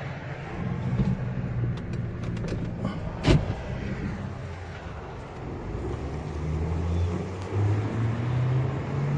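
Car engine running, with a few light clicks and then one sharp knock about three seconds in; over the last few seconds the engine note rises in pitch as it speeds up.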